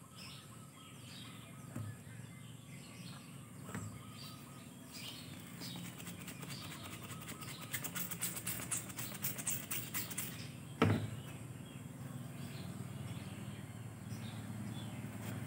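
Birds chirping in the background over a steady low hum. A quick run of clicks comes near the middle, followed about eleven seconds in by one sharp thump, the loudest sound, as a rubber football is handled on a tyre changer's metal table.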